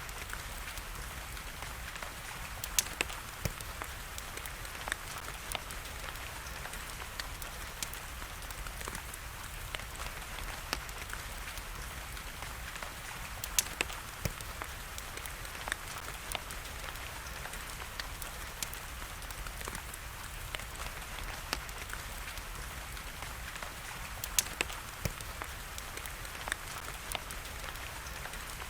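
Fireplace fire crackling, with sharp pops scattered irregularly throughout, over a steady hiss of rain.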